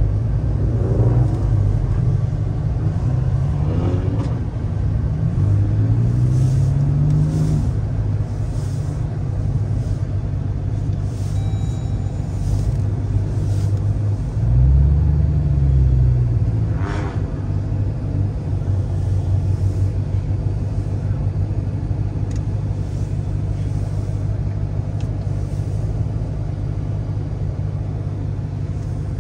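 Car engines idling with a low rumble, revved twice: a rising rev about five seconds in and a quick rev up and back down about halfway through.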